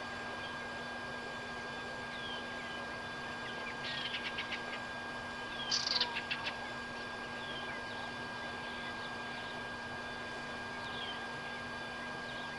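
Birds calling: short, high, falling chirps every second or two, and two quick runs of rapid notes about four and six seconds in, the second the loudest. Under them run a steady hiss, a constant high tone and a low hum.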